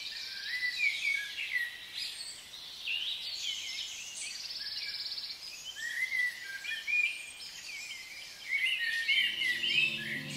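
Birds singing and chirping, many short rising and falling calls overlapping. Soft music with held low notes comes in about nine seconds in.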